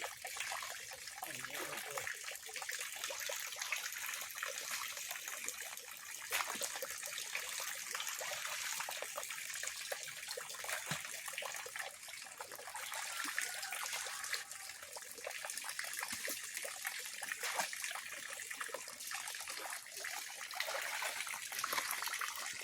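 Water splashing and trickling steadily in a fish pond, with many small splashes and knocks throughout.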